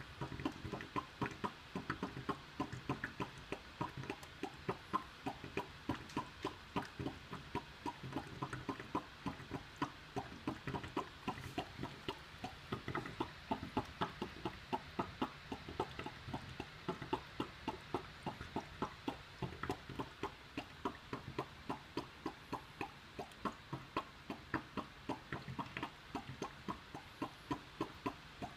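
Air conditioner duct giving a constant run of short, irregular ticking pops, roughly three a second. This is the pressure-difference noise that sets in when the room is airtight; it stops when a window is opened, and it means the duct needs repairing.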